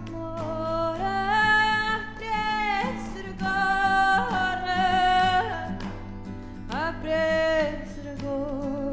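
A woman singing long held notes that slide and waver, over plucked acoustic guitars, in about three phrases with short breaks between them.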